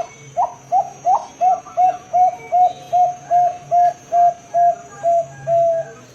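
Bangkok-type zebra dove (perkutut) singing: a quick, even run of short cooing notes, about two and a half a second, ending on a longer held note.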